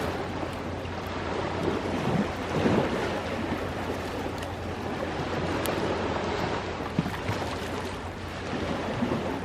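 Ocean waves washing onto the shore in a steady wash, with a crackling campfire giving a few sharp pops.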